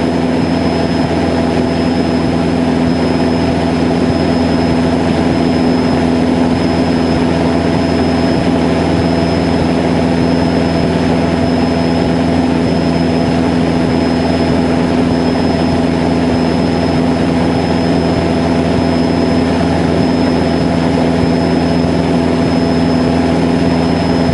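Cessna 152's four-cylinder Lycoming engine and propeller running at a steady, unchanging pitch, heard from inside the cabin.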